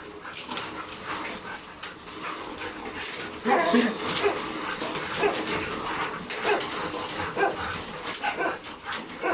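Excited dogs whining and giving short barks and yips, getting louder about three and a half seconds in.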